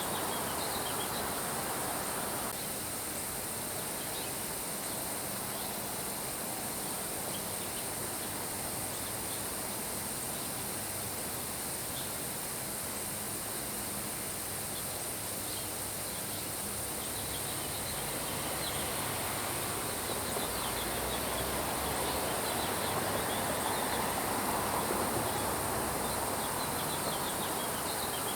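Steady rain hiss with many short, high bird chirps over it and a constant high-pitched insect-like drone; the rain swells a little about two-thirds of the way through.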